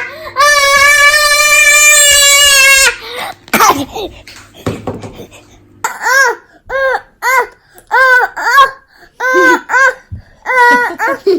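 A long held high note that stops about three seconds in, then a run of short, rising-and-falling squealing laughs from a young child.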